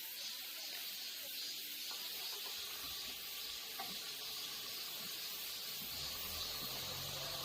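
Steady, high-pitched chirring of summer insects in a forest, an even hiss with no breaks. A faint low hum joins about six seconds in.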